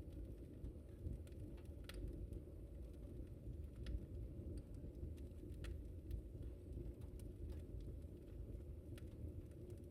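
Wood fire crackling in a fireplace: irregular sharp snaps and pops, a little under one a second, the loudest about four seconds in, over a steady low rumble.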